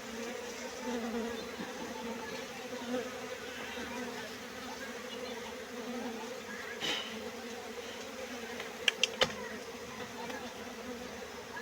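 Honeybees buzzing in a steady hum. Three sharp clicks come in quick succession about nine seconds in.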